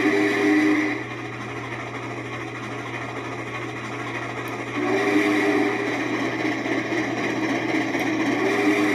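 Norfolk & Western 611 steam locomotive's chime whistle blowing a held chord, breaking off about a second in and sounding again about five seconds in. In between there is a steady rushing noise.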